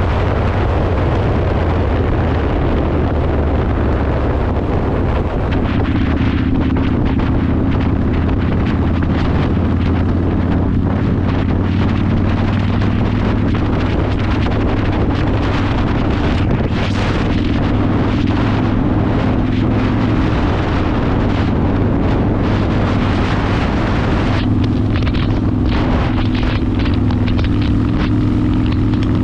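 Yamaha Warrior 1700's V-twin engine running loud and steady through a custom exhaust while riding, its note shifting a few times, with wind buffeting the microphone.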